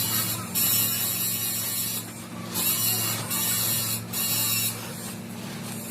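Repeated short bursts of high hissing, five in all with brief gaps between them, over a steady low machine hum.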